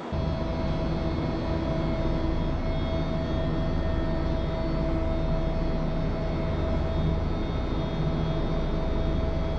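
Steady drone of heavy machinery running, a low rumble with a constant whine over it.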